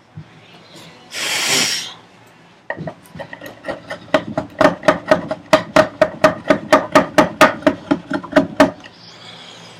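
A hand tool working wood in quick, even rasping strokes, about four a second, while a dado is cleaned up; the strokes start a little under three seconds in and stop near the end. A short rushing noise comes about a second in.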